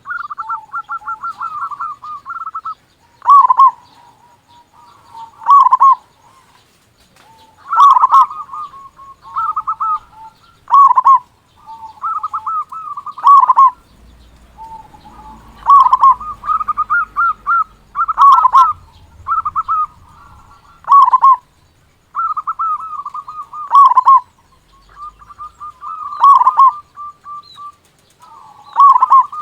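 Zebra dove (perkutut) cooing over and over in loud phrases. Each phrase is a quick stuttering run of notes that ends in a louder deep 'kung', and they come roughly every two to three seconds.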